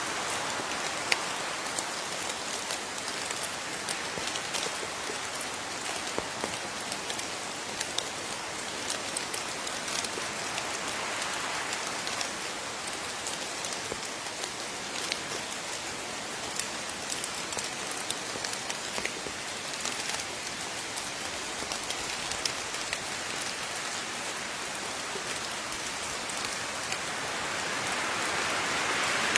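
Steady rain: an even hiss of falling rain, dotted with many sharp ticks of single drops striking a nearby surface.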